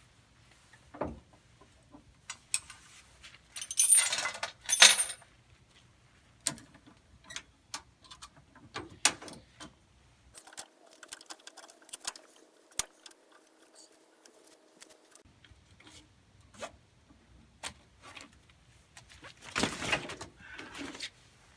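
Metal clinking and rattling as the safety chain and retaining strap are loosened and pulled off an LMTV's spare tire: scattered clicks, with louder jangling bursts about four seconds in and near the end.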